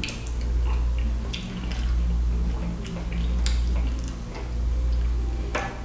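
Close-miked chewing and wet mouth sounds from someone eating chicken and rice, with a few sharp clicks of a metal spoon against a glass bowl.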